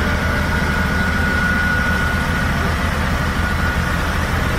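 Diesel engine of an XCMG XS203J single-drum vibratory roller running steadily, with a thin high whine over the low hum that fades about two seconds in.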